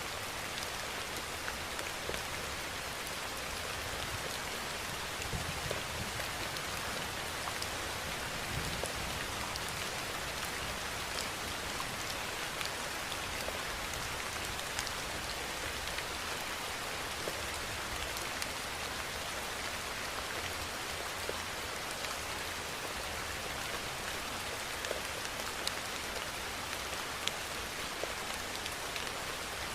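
Steady rainfall: an even hiss of rain with scattered sharp ticks of single drops.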